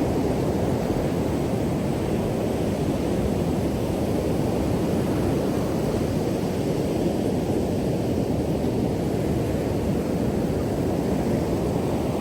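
Steady rush of ocean surf mixed with wind on the microphone, an even low noise with no breaks.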